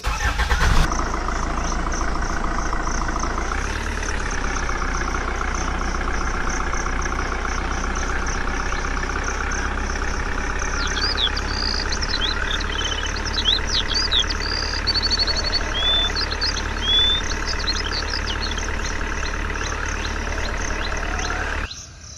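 An engine running steadily at idle, with a slight change in pitch about three and a half seconds in. Birds chirp in the background about halfway through.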